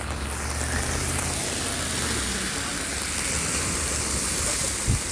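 Steady hiss of heavy rain, with a vehicle's low engine hum under it that fades out about halfway through.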